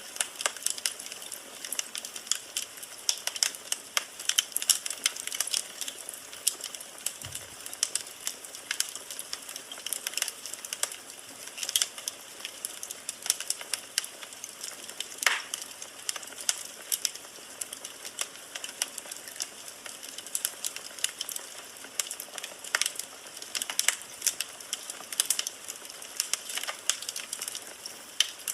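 Firewood burning in a fireplace: continuous irregular crackling and popping of the logs over a soft hiss, with a sharper pop about fifteen seconds in.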